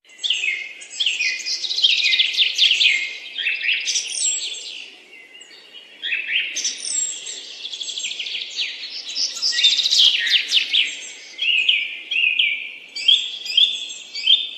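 A flock of small birds chirping and twittering together in dense, overlapping calls, starting suddenly, easing off briefly about five seconds in, then picking up again.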